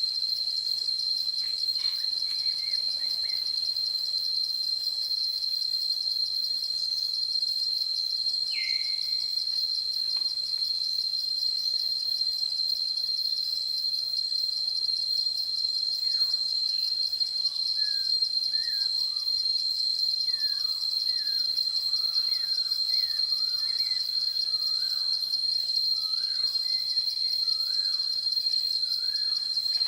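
Forest ambience: a dense insect chorus keeps up a steady, high-pitched, pulsing trill throughout. Over it come one short falling bird call about eight seconds in, and from about halfway on a scatter of short bird chirps.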